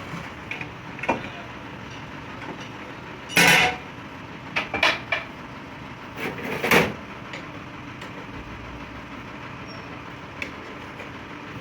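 Workshop machinery running steadily, with several loud metal clanks and knocks: one about three and a half seconds in, a quick run of them near five seconds, and another near seven seconds.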